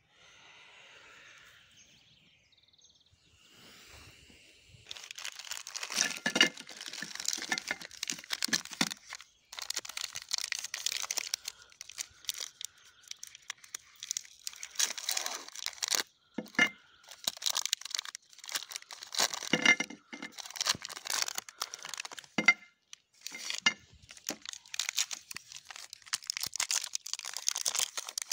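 Snickers bar wrappers being torn open and crinkled: faint at first, then repeated bursts of crackling with short pauses between.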